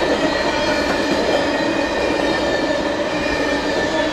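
Empty steel coal cars of a freight train rolling past on the rails. A steady rumble of wheels on rail, with a few held tones running through it.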